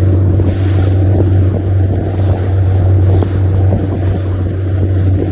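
A boat under way: its motor drones steadily, with wind buffeting the microphone and rushing water that swells and fades every second or so.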